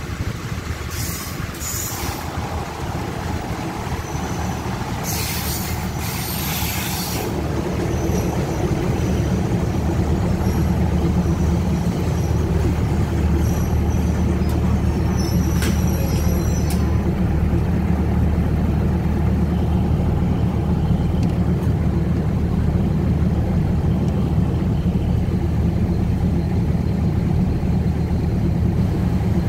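Passenger train braking to a stop alongside a station platform, heard from a coach window: a steady low diesel rumble that grows louder about seven seconds in. Short hisses of the air brakes come twice in the first seven seconds, and a brief screech about halfway.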